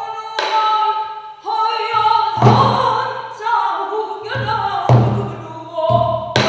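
Pansori singing: one voice sliding and bending between held notes, accompanied by deep strokes and sharp knocks on the buk barrel drum.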